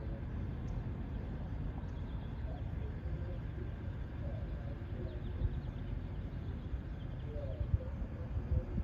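Outdoor ambience: a steady low rumble with faint bird chirps scattered through it.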